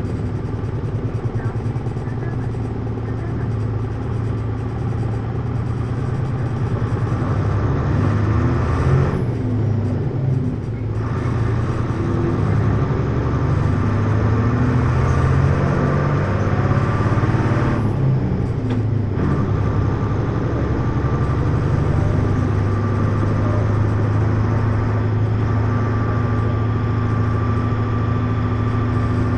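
Hino U-HT2MLAA city bus's diesel engine and drivetrain heard from inside while driving. The engine note shifts through the middle, the upper sound briefly drops away twice, and it settles into a steady hum near the end. The bus has developed an abnormal running noise, close to the end-of-life sound of a sister bus of the same fleet.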